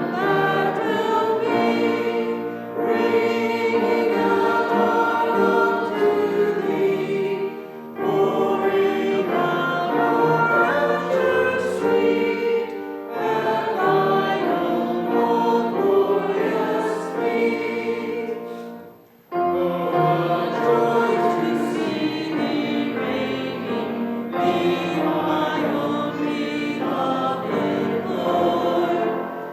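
Church congregation singing a hymn together in phrases, with brief breaks between lines and one deeper pause a little past the middle.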